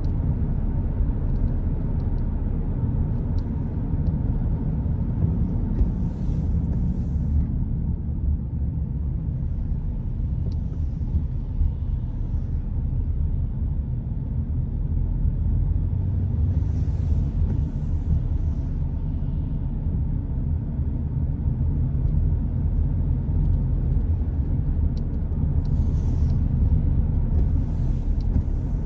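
Steady low road rumble of a car driving on a rain-wet road, with short swells of high hiss about five times.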